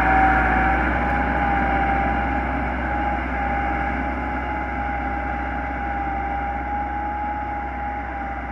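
Massey Ferguson 385 tractor's diesel engine running steadily, with a steady high whine over the engine noise. The sound gradually fades.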